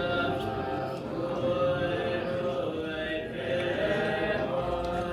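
Buddhist monks chanting prayers together, with long, steady held notes.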